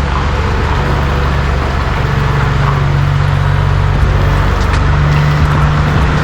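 Semi truck's diesel engine running steadily at low revs, its pitch stepping up slightly a couple of times.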